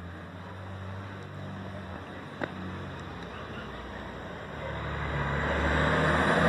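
Diesel engine of a Volkswagen 23220 truck running steadily, getting louder over the last second or so as it picks up. A single sharp click about two and a half seconds in.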